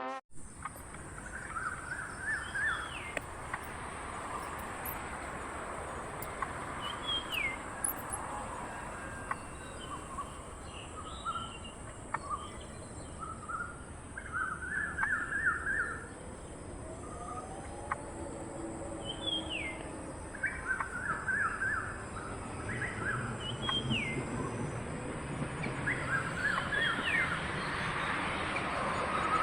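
Bird calls, a short rising note and then a quick chattering run of notes, repeated every few seconds over a steady high hiss.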